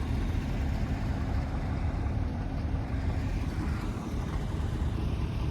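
Idling truck engines: a steady low rumble with a faint hum in the first half.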